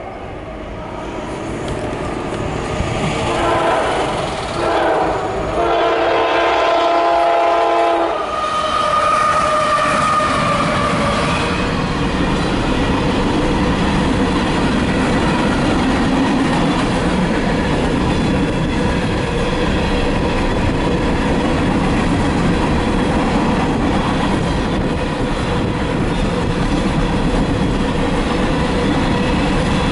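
CSX freight train's diesel locomotive horn sounding two blasts about 3 and 6 seconds in, then the train passing close by, its empty ballast cars rolling over the rails in a loud, steady rumble.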